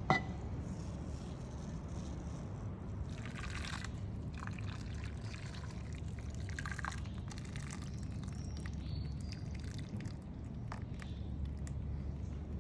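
Liquid pouring over a steady low hum, with a few short knocks or clinks.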